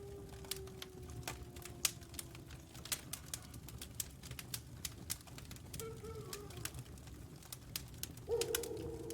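Wolves howling over a crackling wood fire: one long howl slides slowly down in pitch and fades about three seconds in, a short wavering howl comes near six seconds, and another howl begins near the end. The fire's sharp crackles and pops keep up underneath.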